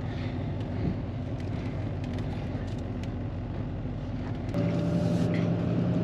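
Vehicle engine running steadily while maneuvering. About four and a half seconds in it abruptly gets louder, with a steady whine that slowly rises in pitch.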